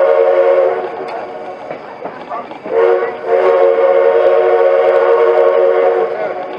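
Chime steam whistle of a 1928 Baldwin 2-6-6-2T Mallet steam locomotive blowing: one blast ends just under a second in, then a short blast and a long blast follow, a pattern like the close of a grade-crossing signal. Wind rumbles on the microphone underneath.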